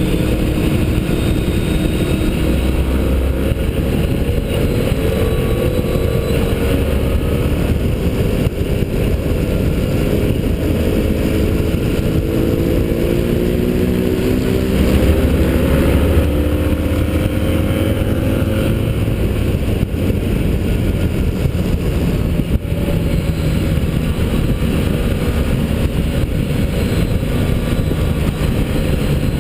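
Motorcycle engine at speed on a racetrack, its pitch rising under acceleration and dropping back at shifts and corner entries, over a steady rush of wind noise.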